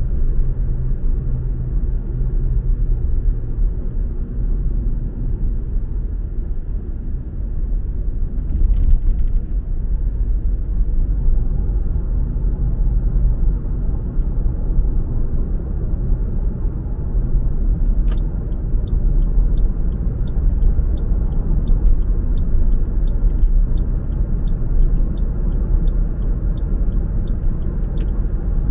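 Steady low rumble of a car's engine and tyres on the road. About two-thirds of the way in, a sharp click starts an even ticking about twice a second that runs for some ten seconds and ends with another click, like a turn indicator being switched on and off.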